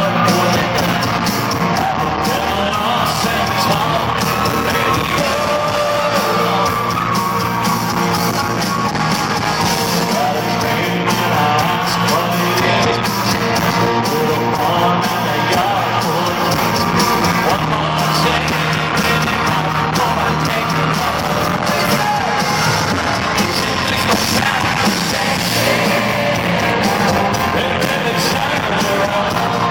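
Live country band and singer performing in a large hall, with a crowd singing along and yelling.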